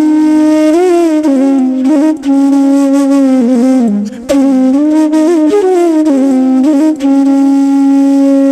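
Solo flute music: long held notes with slides and ornaments between them, broken by a few brief pauses between phrases.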